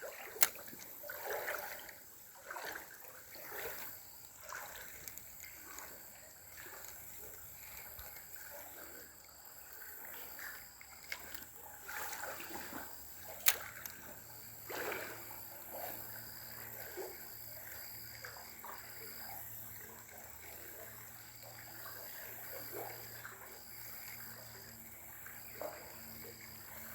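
Faint, irregular splashing and trickling of river water, with a couple of sharp clicks.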